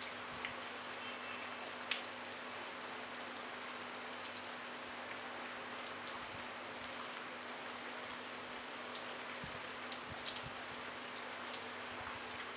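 Light rain falling steadily, an even patter with now and then a single louder drop ticking close by, the sharpest about two seconds in. A faint steady low hum runs underneath.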